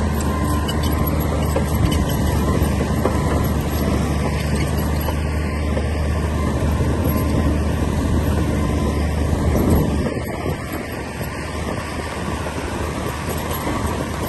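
Komatsu D60P bulldozer's diesel engine running with a steady low drone, easing off slightly about ten seconds in.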